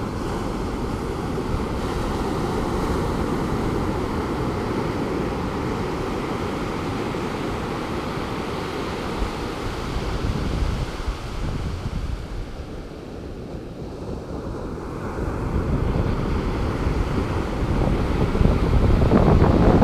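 Pacific Ocean surf, a steady wash of breaking waves that eases off about two-thirds of the way through and swells again near the end, with wind on the microphone.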